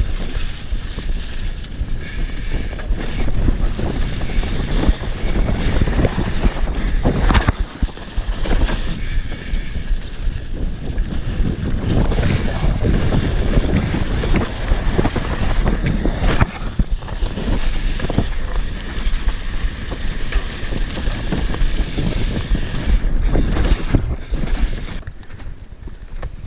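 Wind buffeting an action camera's microphone while a mountain bike runs down a dirt trail, with steady rumble from the tyres and bike and a couple of sharp knocks along the way.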